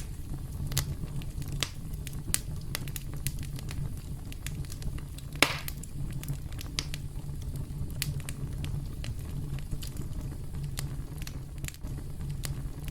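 Wood fire crackling, with frequent sharp pops at irregular moments over a steady low rumble of burning. One louder pop comes about five and a half seconds in.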